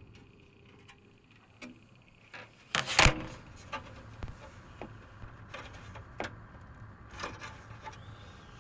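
Computer case side panel being handled and taken off: rubbing and knocking, with a loud clunk about three seconds in, followed by scattered clicks. A steady low fan hum runs underneath and grows louder once the panel is off.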